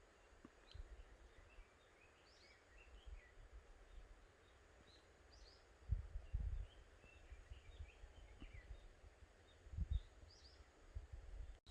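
Faint chirping and twittering of several small birds. Twice, about halfway through and again near the end, a brief low rumble or thump cuts in.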